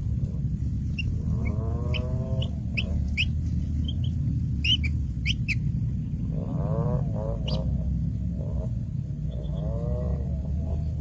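Birds calling: quick high chirps mixed with several longer, wavering calls, over a steady low rumble.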